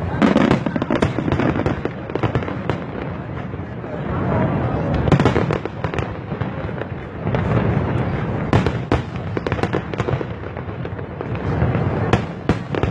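Aerial fireworks display going off continuously: a dense barrage of bangs and crackling, with heavier volleys near the start, about midway and again near the end.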